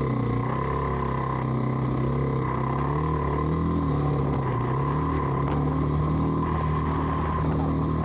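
Dual-sport motorcycle engine running steadily under load, its pitch rising and falling gently with the throttle as the bike works through deep silt, with a steady high whine over it.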